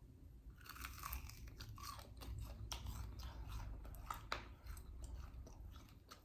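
Close-up crunching of a bite of cornmeal-crusted fried Spam, the crisp coating cracking in many sharp crackles as it is bitten and chewed.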